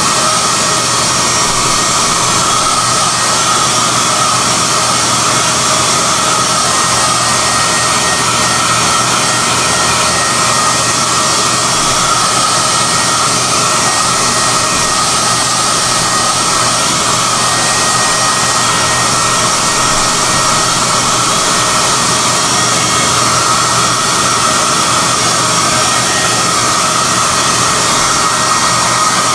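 SOUNATE high-airflow hair dryer running steadily and blowing air, a loud even rush with a faint high whine.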